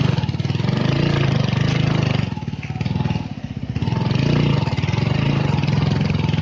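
Motorcycle engine running while riding, easing off for a moment about a third of the way in, then pulling steadily again.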